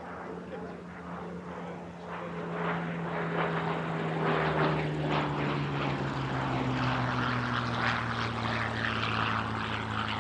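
Hawker Hurricane Mk I's Rolls-Royce Merlin V12 engine and propeller on a display pass. The engine note grows louder about two seconds in and falls steadily in pitch as the aircraft goes by.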